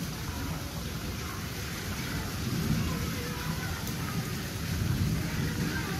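Steady rain falling onto wet concrete, with a low, uneven rumble beneath the hiss.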